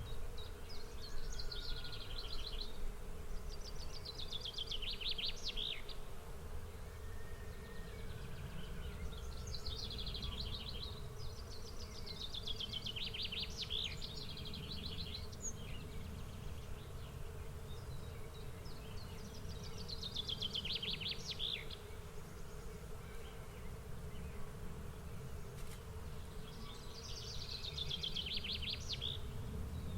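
A songbird singing short, fast trilled phrases, each a second or two long and repeated every few seconds, over a steady low buzz and a low rumble.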